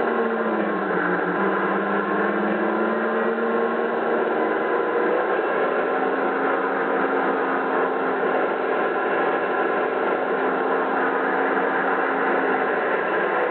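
Model-locomotive sound decoder playing a Napier Deltic diesel engine sound through the model's speaker, running steadily. Its engine note dips briefly about a second in, then settles back.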